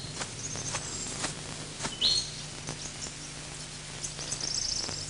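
Birds calling: scattered short high chirps, a clear whistled note about two seconds in, and a fast run of high chirps near the end.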